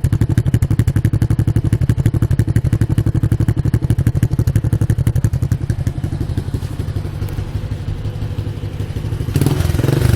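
Modenas GT128's four-stroke single-cylinder engine running through an aftermarket E-Power Belang exhaust muffler: a steady, rapid putter of exhaust pulses at idle. It eases a little quieter about six seconds in, then turns louder with the throttle opened near the end.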